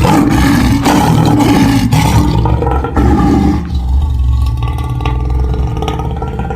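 Lion roaring: one long, deep roar that thins out over its second half.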